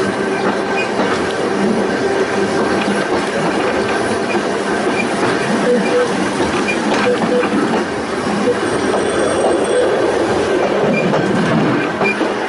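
Volk's Electric Railway car running along its narrow-gauge track, a steady rumble with rail clatter and short wheel squeals.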